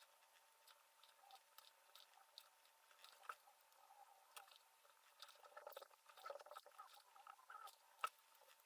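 Faint scratching, rustling and small clicks of thin enamelled copper wire being wound turn by turn onto a tooth of a brushless motor stator, busiest about two thirds of the way through, with one sharper click near the end.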